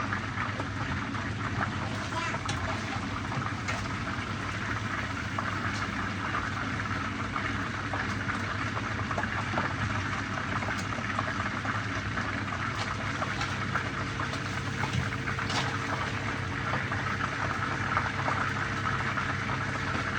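Fish pan-frying in hot oil: a steady sizzle with scattered small pops and crackles.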